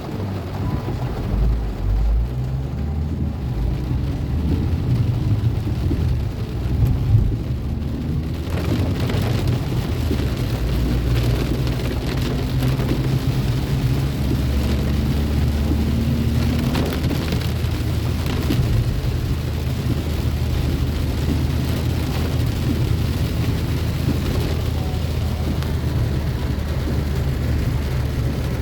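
Heavy rain falling steadily over a deep continuous low rumble; the rain grows denser and hissier about a third of the way in.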